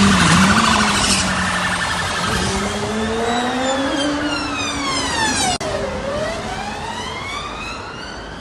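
An emergency vehicle's siren wailing over road and traffic noise. Its pitch slides slowly down, reaches its lowest about six seconds in, then climbs again.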